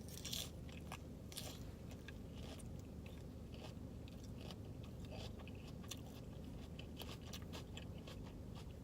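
A person chewing and biting food close to the microphone, with many small irregular crunching clicks over a steady low hum.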